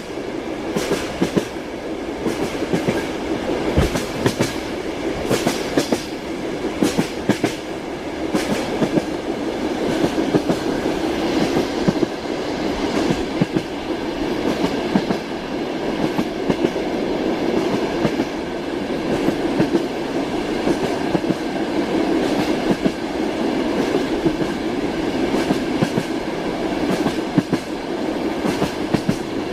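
Train running at speed: a steady rumble of railway carriage wheels on the track, with the repeated clickety-clack of wheels knocking over rail joints.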